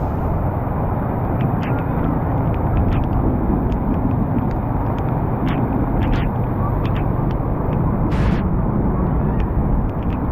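Steady low rumble of traffic in a rain-flooded street, with scattered sharp taps and one longer hiss about eight seconds in.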